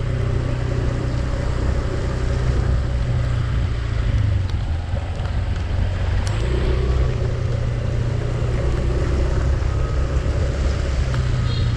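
Engine of the vehicle being driven, running steadily with a low, even rumble.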